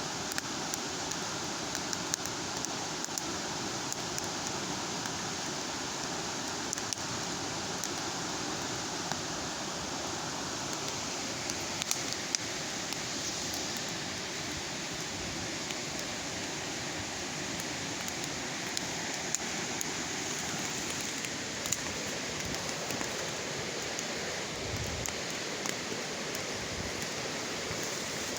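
Wood bonfire burning: a steady rush of flame with frequent sharp crackles and pops scattered throughout.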